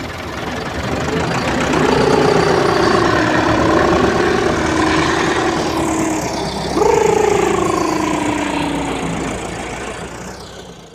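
A motor engine running steadily with a knocking beat, with a long wavering tone over it and then a second tone that starts suddenly and slowly falls in pitch; the sound fades out at the end.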